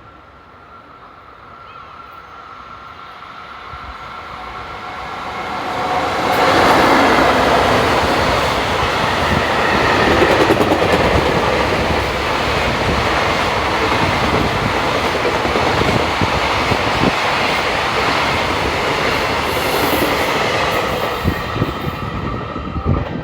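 Freight train hauled by an EF65 electric locomotive passing at speed without stopping. The rumble builds over the first six seconds as it approaches, then holds loud with wheels clattering over the rail joints, and begins to fade near the end.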